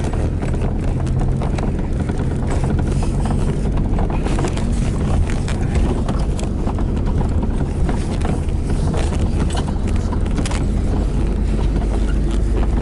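Jeep and motorcycle engines running in a steady low rumble, with a dense run of irregular clicks and clatter over it.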